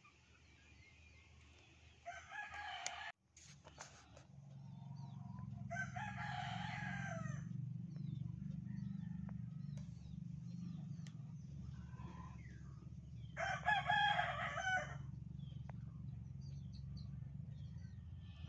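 A bird calls three times, each call a second or so long, about two, six and thirteen seconds in. A steady low hum sets in about four seconds in.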